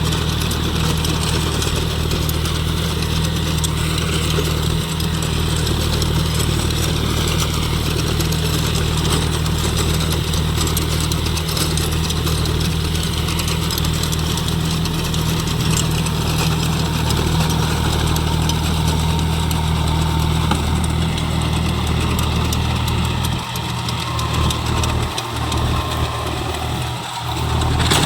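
John Deere 5050 D tractor's three-cylinder diesel engine running steadily, with a deep even drone. In the last few seconds the low drone drops away and comes back unevenly.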